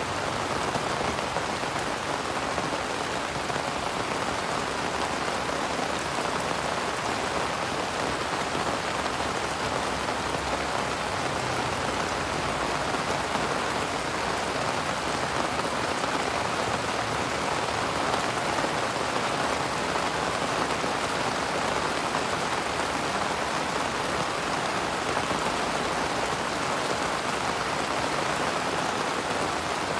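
Steady rain falling on leaves, an even patter with no thunder.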